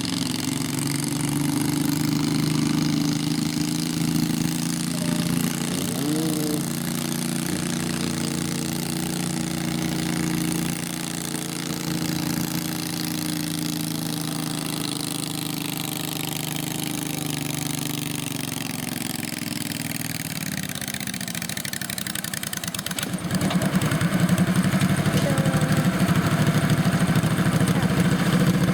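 Small garden tractor engines running steadily. About twenty seconds in one engine note slows and fades, and a little later a louder engine comes in close.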